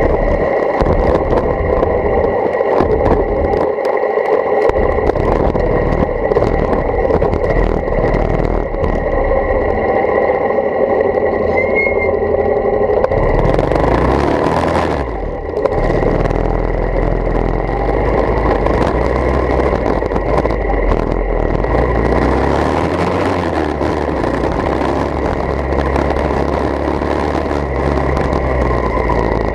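Motorcycle engine running continuously through a bamboo exhaust pipe, with a brief louder hissing rush about halfway through.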